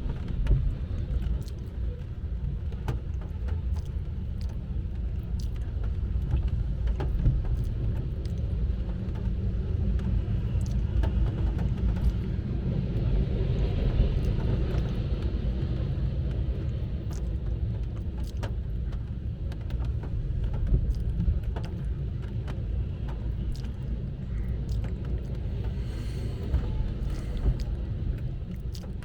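Low steady rumble of a passing BNSF freight train heard from inside a car, with scattered sharp ticks throughout.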